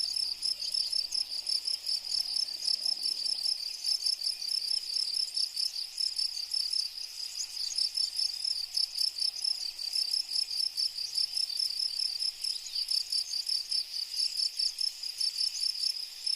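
Cricket chirping: an unbroken run of rapid, even, high-pitched pulses.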